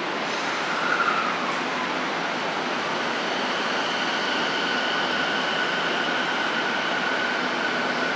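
Odakyu 4000 series electric train running past, a steady rushing rail noise that swells at the start. From about three seconds in, a steady high-pitched whine runs over it.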